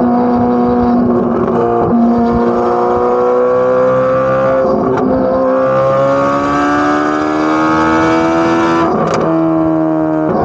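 Corvette C8 Z06's 5.5-litre flat-plane-crank V8 exhaust at high revs under acceleration. The pitch climbs slowly and is broken three times by a short crack with a step in pitch, as at gear changes.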